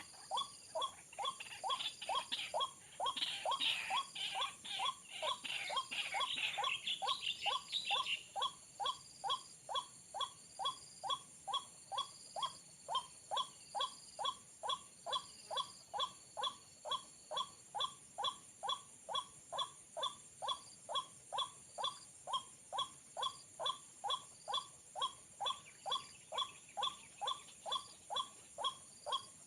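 White-breasted waterhen calls: a monotonous 'kru-ak' repeated evenly about twice a second, with faster chattering calls mixed in between about three and eight seconds in. The steady calling is the lure used to draw a waterhen to the snare.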